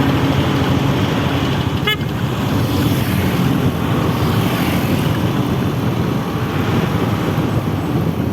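Heavy truck engine running with road traffic noise: a loud, steady low rumble.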